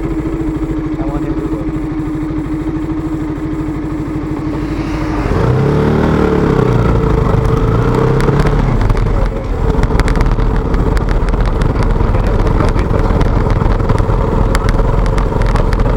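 KTM motorcycle engine running on the move: a steady note for about five seconds, then it gets louder and its pitch sweeps up and down for a few seconds before settling into a steady, louder note.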